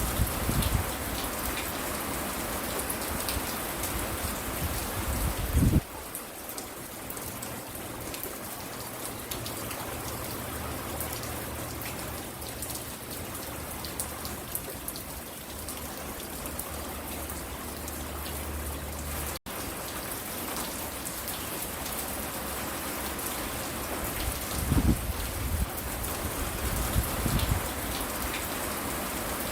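Steady rain falling and pattering on surfaces, with a few low thumps near the start and toward the end and a momentary dropout about two-thirds through.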